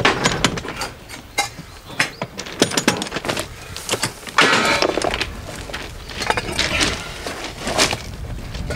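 Irregular metallic clanks and knocks of hand tools working on steel rail during track work, with a louder burst of clattering about four and a half seconds in.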